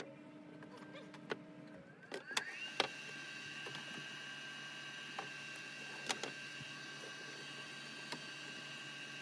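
A furnace motor spinning up, its pitch rising over about half a second into a steady high whine, with a few sharp clicks and knocks.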